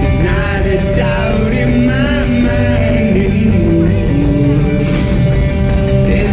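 Rock band playing live, with a lead vocal singing a wavering melody over a held instrumental note and a heavy low end.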